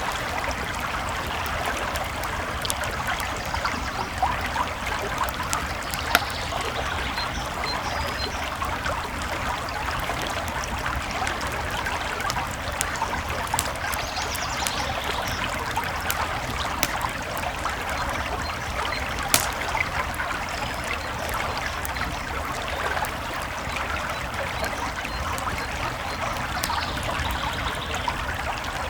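A creek flowing and trickling steadily, with a campfire crackling over it in small scattered pops and two sharper pops, one about six seconds in and one near nineteen seconds.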